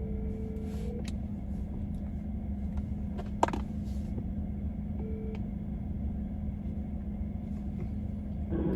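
Telephone ringback tone heard through a phone speaker: one ring ends about a second in, and the next starts about 5 s in and is cut short as the call is answered. Underneath is a steady low vehicle rumble and hum, with a single sharp click about midway.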